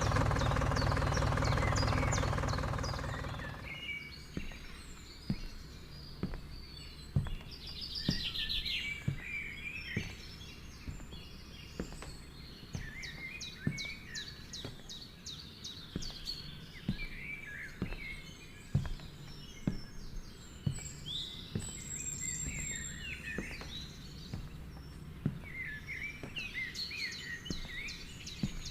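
Small birds chirping and calling, with scattered sharp clicks. A loud steady hum at the start fades out after about three seconds.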